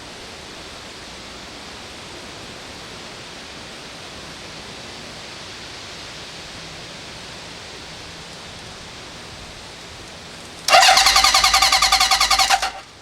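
Steady background hiss, then near the end the electric starter of a 1972 Honda CB750's four-cylinder engine cranks in a loud, fast-pulsing whir for about two seconds. It stops briefly, then cranks again.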